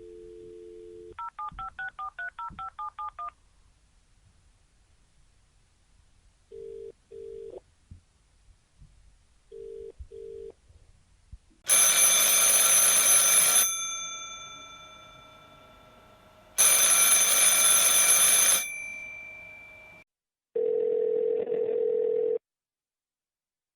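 A string of telephone sounds: a dial tone cuts off about a second in, then about ten touch-tone keypad beeps are dialed in quick succession. Two double beeps of ringback tone follow, then a telephone bell rings loudly twice, each ring lasting about two seconds and fading after, about five seconds apart; a short steady tone sounds near the end.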